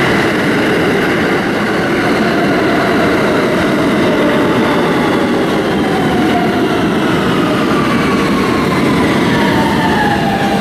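Train running on the rails: a steady, loud rumble of wheels and cars, with a whining tone that slides down in pitch over the last few seconds.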